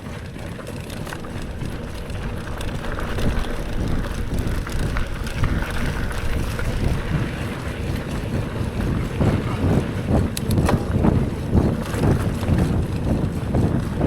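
Wind rumbling on the microphone of a camera riding along on a mountain bike over a dirt trail, with the bike's uneven knocks and rattles over the ground, and a few sharp clicks about ten seconds in.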